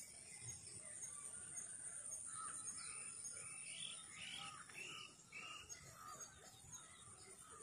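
Faint bird calls: a run of four or five short calls about half a second apart through the middle, over a steady high-pitched hiss.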